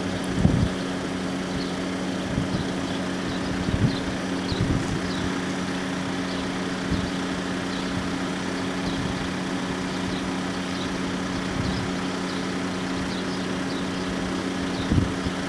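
Steady low drone of vehicle engines idling at the closed crossing, with gusts of wind thumping on the microphone now and then and faint short high chirps.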